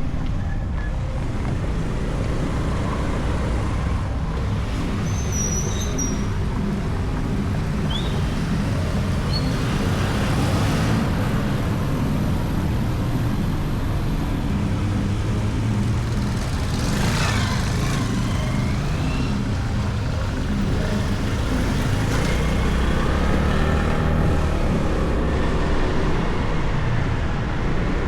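Motorcycle engine running on the move, with road and wind noise. The engine note rises and falls a few times in the last few seconds, and a few short high chirps sound near the start.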